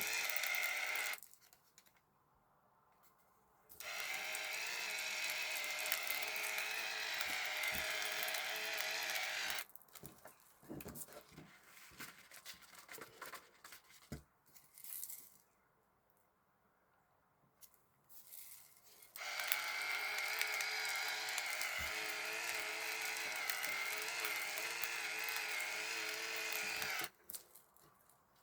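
Rechargeable electric spice grinder's motor running as it grinds coriander seeds on the fine setting, in three runs with a steady whine, the last two several seconds long. Small clicks and knocks of handling the grinder fall between the runs.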